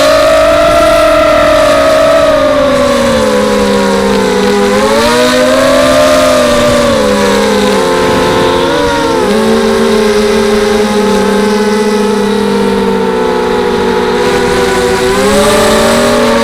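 250-size FPV racing quadcopter's brushless motors whining, several slightly different pitches rising and falling with the throttle and drifting across one another.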